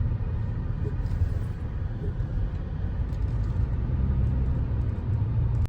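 Vehicle driving along a road: a steady low engine and road rumble that cuts off abruptly near the end.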